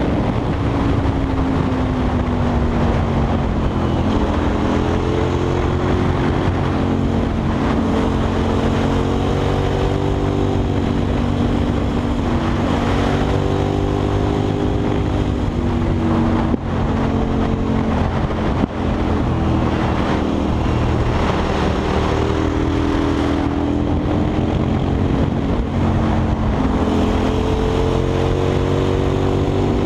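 KTM 990 SMR's V-twin, fitted with a Leo Vince exhaust, being ridden hard. The engine note keeps rising and falling through the gears and corners, with two brief throttle-offs about 16 and 19 seconds in.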